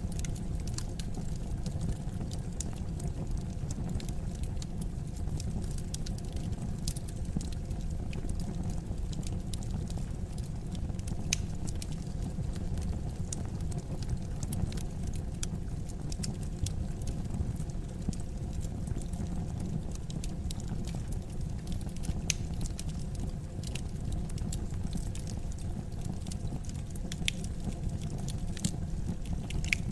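Wood fire burning in a fireplace, a steady low rumble of flames with scattered sharp crackles and pops from the burning logs.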